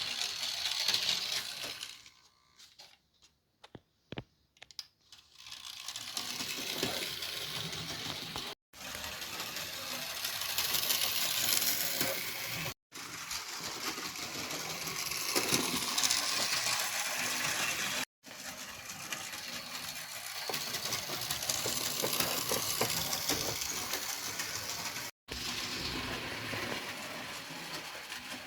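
Model train running along its track, a steady mechanical rattle of motor and wheels on the rails. It goes nearly quiet with a few clicks about two seconds in, and cuts off abruptly four times.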